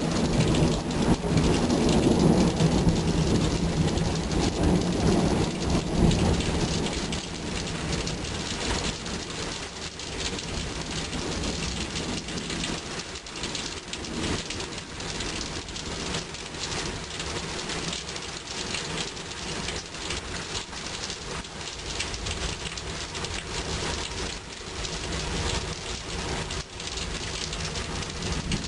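Rain falling steadily, with a long rumble of thunder in the first several seconds that dies away about seven seconds in.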